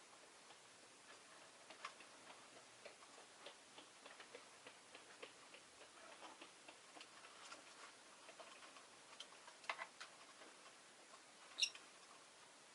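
Rosy-faced lovebird making quiet, irregular light clicks and taps, with one short, high chirp near the end as the loudest sound.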